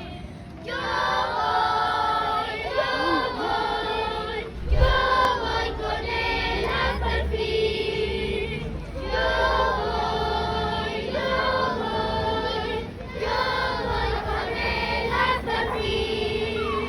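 A group of children's and women's voices singing together in phrases separated by short breaks, over a steady held note. A low thump sounds about five seconds in.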